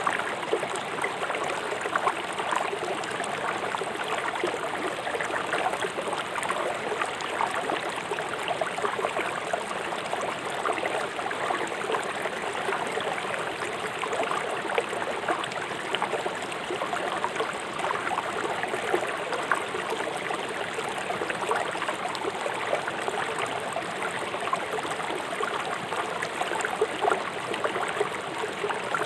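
River water rushing over rocks in a steady splashing, bubbling flow.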